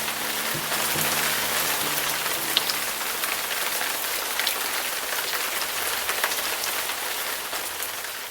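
Steady rain falling, a dense hiss scattered with the ticks of single drops. A held chord left over from the song dies away under it about three seconds in.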